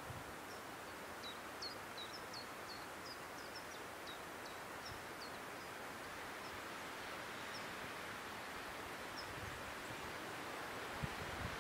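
A small bird singing a run of short, high chirps, densest in the first few seconds and thinning out later, over a steady soft outdoor hiss.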